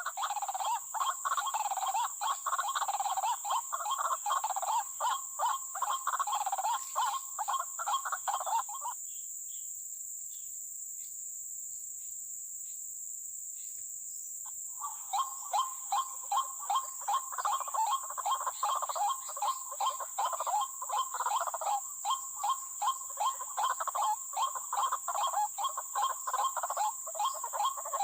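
White-breasted waterhen calls: a fast, repeated croaking 'kruak-kruak' chorus that stops about nine seconds in and starts again about six seconds later. A steady high insect whine runs underneath.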